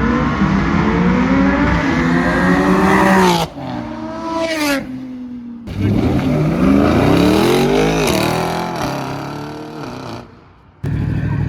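Car engines revving hard in several short cut-together takes, the engine note climbing, then stopping abruptly at each cut. In the middle a car accelerates past, its note rising and then falling away.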